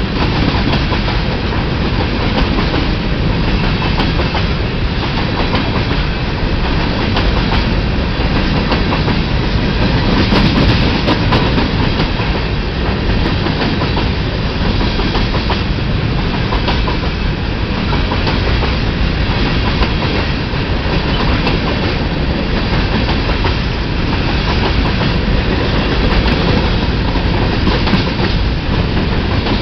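Empty BNSF covered grain hopper cars rolling past close by: a loud, steady rumble of steel wheels on the rail, with the clack of the wheel trucks going over the track.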